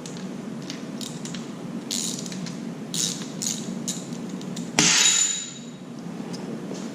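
Hand tools and sockets clicking and clinking against metal while engine bolts are worked loose, with a louder metallic clatter about five seconds in.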